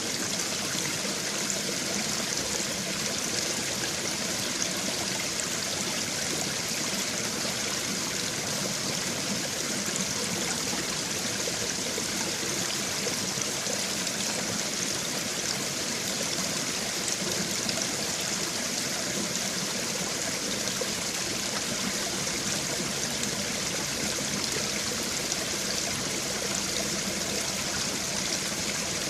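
Small babbling brook: water running and trickling over stones, a steady, even, hissy burble.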